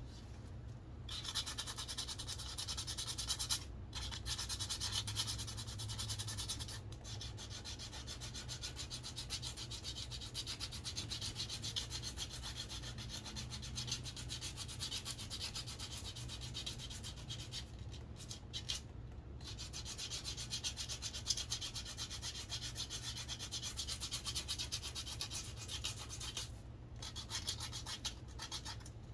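Sandpaper rubbing back and forth along a wooden walking stick in quick, steady strokes to smooth it, stopping briefly a few times.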